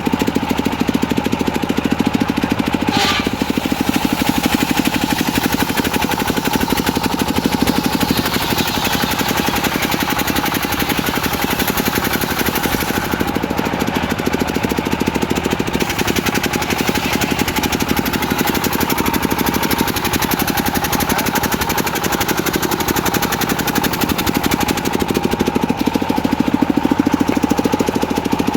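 Diesel engine driving a homemade circular saw, running steadily with a fast chugging beat and a steady high tone over it.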